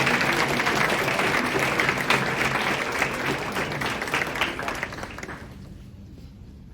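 Audience applauding, a dense patter of clapping that fades out about five and a half seconds in.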